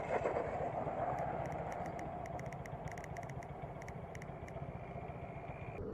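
Steady road and engine noise of a moving car heard from inside, with faint irregular light ticks.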